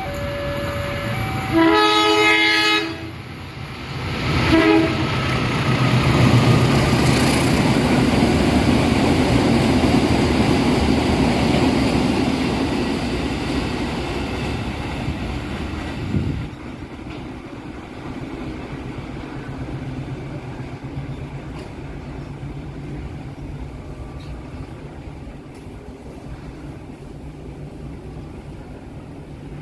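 Train horn sounding one long blast and then a short one, followed by the rumble of the train running past, which builds, holds and then drops away suddenly about sixteen seconds in, leaving a quieter hum.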